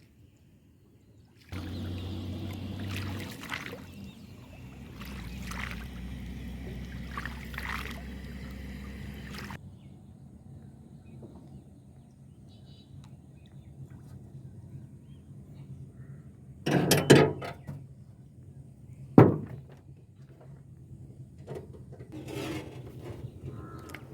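Water pouring and splashing for several seconds, then quieter trickling broken by two loud, sudden sounds about two seconds apart.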